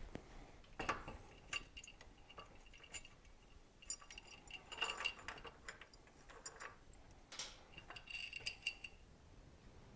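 Metal hand tools and motorcycle parts clinking and knocking during disassembly: a string of light knocks, several leaving a brief ringing tone.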